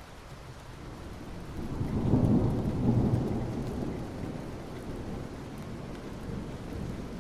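Steady soft rain falling on asphalt, with a low rumble that swells about a second and a half in, is loudest a second later, and slowly fades over the next few seconds.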